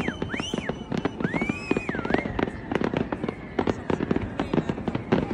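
Fireworks display: a dense, rapid run of bangs and crackles. A few rising-and-falling whistles sound in the first two seconds.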